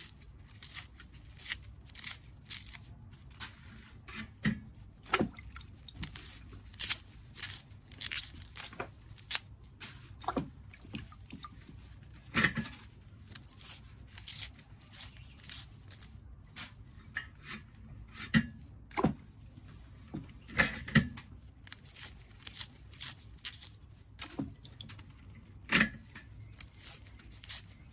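Produce being cut and torn by hand: an irregular series of crisp snaps and crunches, about one or two a second, over a low steady hum.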